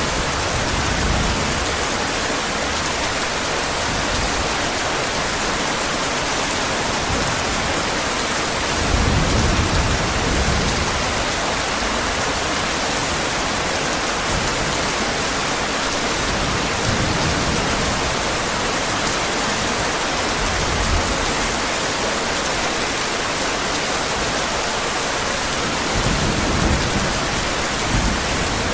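Steady heavy rain, an even hiss of falling water. Low thunder rumbles swell under it a few times, the strongest about nine seconds in.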